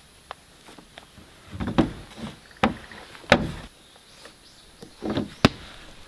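A series of irregular knocks and thuds, about five, the sharpest a little past halfway and near the end.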